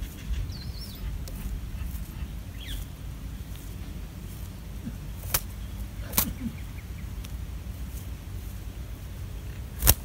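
Two faint, short bird chirps in the first few seconds, the second falling in pitch, over a steady low rumble. Three sharp clicks follow in the second half, the last and loudest near the end.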